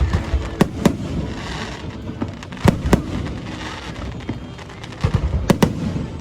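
A fireworks display: sharp bangs of exploding shells over a steady rushing noise. The bangs come in pairs about half a second in and near three seconds, then as a quick cluster near the end.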